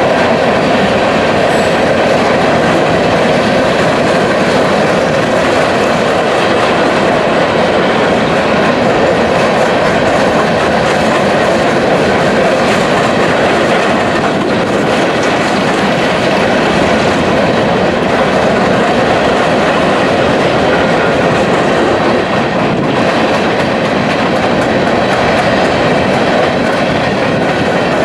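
Train cars rolling past steadily and loudly, with wheels clicking over the rail joints.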